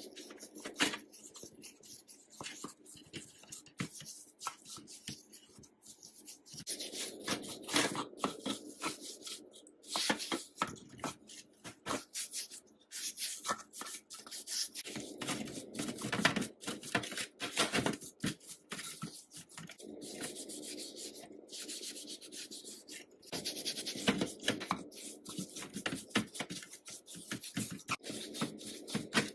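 Rubbing and scraping by hand on a restoration workpiece, in irregular stretches a few seconds long with frequent sharp clicks and taps.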